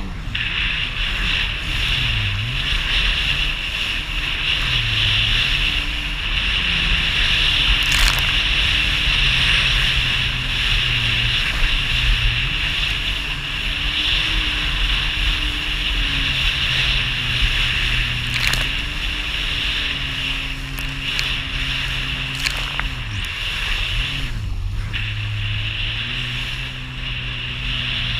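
Jet ski engine running at changing throttle, its pitch dipping and rising again and again, over a steady rush of water and wind. A few brief clicks stand out.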